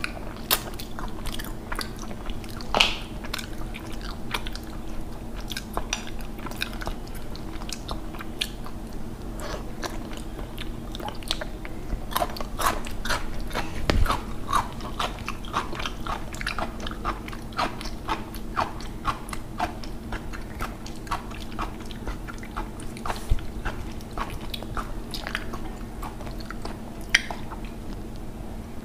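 A person chewing a handful of rice and curry, with many small wet clicks and crunches. There is one stronger knock about halfway through.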